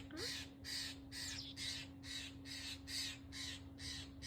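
Blue jay giving a long run of harsh, raspy calls, evenly repeated about three times a second.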